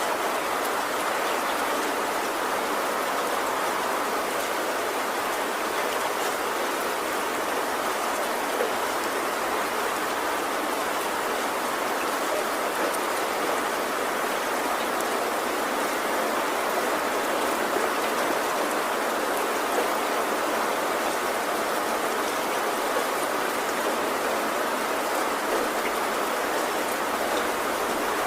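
Heavy rain falling steadily on a tin roof, an even hiss of drops with faint scattered ticks and no thunder.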